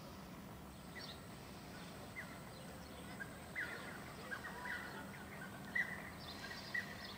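Small birds chirping in short, scattered calls over a steady low outdoor background noise.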